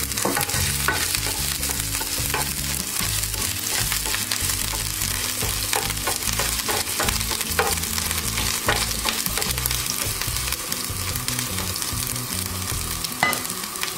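Chopped ginger sizzling steadily in hot oil with mustard seeds in a nonstick frying pan, with scattered sharp pops and a spatula stirring.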